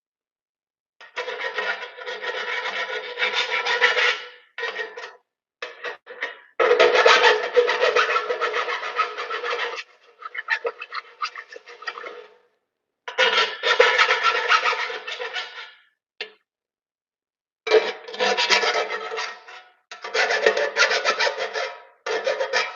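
A hand file rasping on the cut edges of a metal electrical box, in runs of quick strokes a few seconds long with short pauses between them, the metal ringing with a steady tone under the strokes. The filing deburrs the sharp edges of a hole cut with tin snips.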